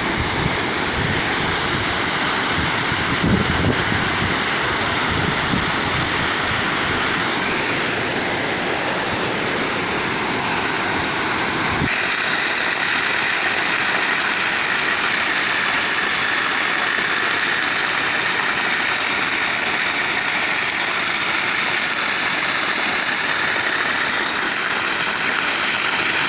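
Steady rush of running water. The deep rumble falls away abruptly about twelve seconds in, leaving a lighter, hissier rush.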